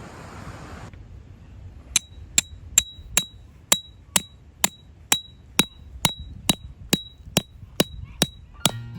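Hammer driving a metal tent peg: about sixteen sharp, ringing strikes at an even pace of a little over two a second, starting about two seconds in.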